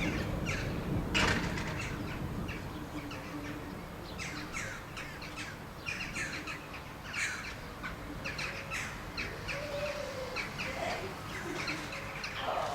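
Birds calling outdoors: many short, high chirps that drop in pitch, repeated throughout. A low rumble of distant thunder dies away at the start.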